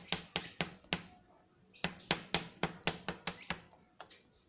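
A run of sharp clicks at about four a second, stopping about a second in, then starting again after a short pause and ending near the end.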